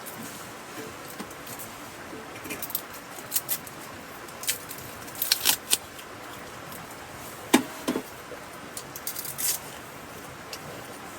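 Scattered light clicks and clinks of small hard objects being handled, some in quick clusters, with one louder knock about two-thirds of the way through, over a steady background hiss.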